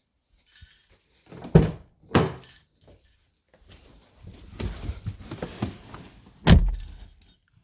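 Handling noise: several knocks and thumps with jingling and rustling between them. The loudest thumps come about one and a half seconds in, again about two seconds in, and near the end.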